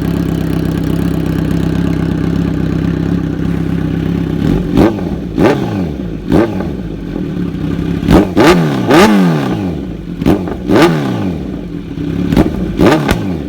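2017 Kawasaki Z900's inline-four running through an SC Project S1 titanium slip-on with the dB killer removed. It idles steadily, then from about four and a half seconds in it is blipped in a string of short, sharp revs, several in quick pairs, the pitch dropping back between each.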